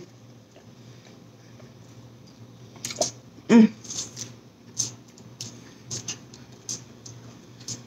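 Corn dog being bitten and chewed close to the microphone: after a short hummed 'mm' about three and a half seconds in, scattered wet mouth clicks and chewing sounds.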